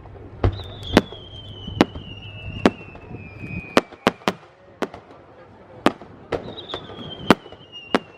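Aerial firework shells bursting overhead: about a dozen sharp, irregularly spaced bangs. Two long high whistles slide slowly down in pitch, one starting about half a second in and another just past six seconds.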